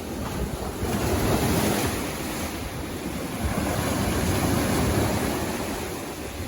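Sea waves breaking and washing up the beach in a continuous surf rush, swelling about a second in and easing off near the end.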